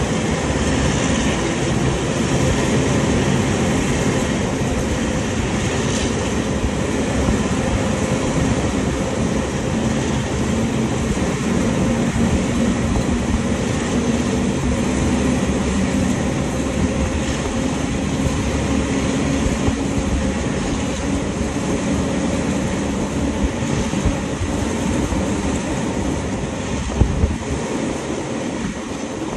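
Passenger train running at speed, heard from inside the carriage: a steady rumble of wheels on the rails, with a few sharper knocks near the end.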